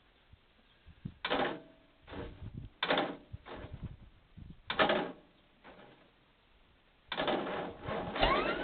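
An engine being cranked in short attempts that do not catch: three brief clattering cranks about a second and a half apart, then a longer one near the end. The engine won't start.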